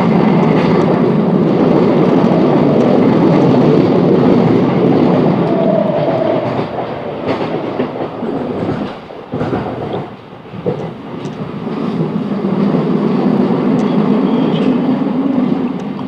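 Class 707 electric multiple unit running at speed, heard from inside the carriage: a steady loud wheel-and-rail rumble with scattered clicks over rail joints. The noise dips briefly about nine seconds in, then builds again.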